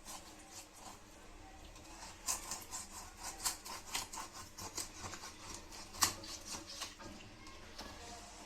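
Raw whole chicken being handled and cut open in a baking tray: scattered small clicks, taps and wet handling noises at an irregular pace, with one sharper click about six seconds in.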